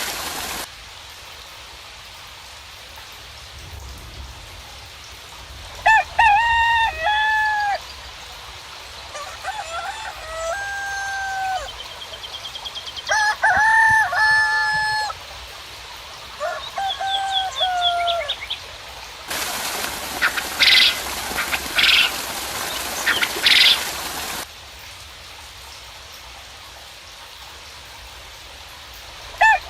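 Rooster crowing four times in a row, each crow a long held call of a second or two, with another starting at the very end. In between, about two-thirds of the way through, a few seconds of steady hiss with several short, sharp high calls.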